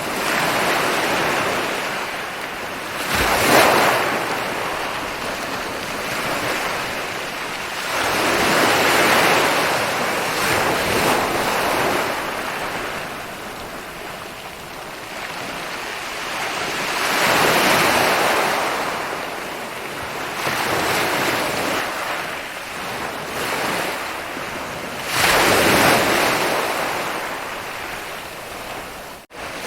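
Ocean waves rolling in and breaking on a beach, a steady wash of surf that swells with each wave and falls back, the biggest breakers about three seconds in and again near the end. The sound cuts out for an instant just before the end.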